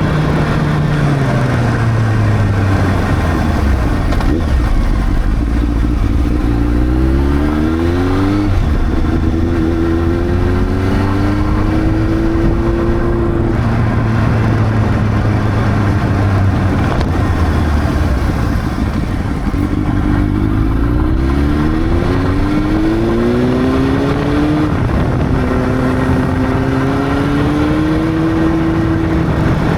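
Honda CB600 motorcycle's inline-four engine under way: the engine note falls at first, then climbs in rising sweeps broken by quick gear changes, holds steadier through the middle, and climbs through the gears again toward the end, with steady wind rush throughout.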